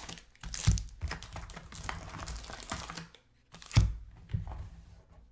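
Rustling and crinkling of trading cards and packaging being handled on a table, with light taps and two louder knocks, one under a second in and one near four seconds, before it falls quiet.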